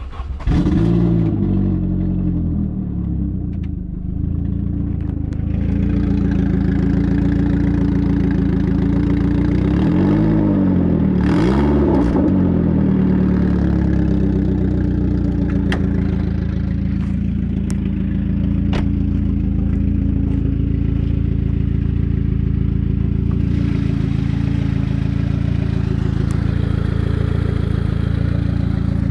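Saab 9000's 2.3-litre four-cylinder engine starting, flaring up and settling, revved twice, then idling steadily. The leaking exhaust makes it sound like a tractor.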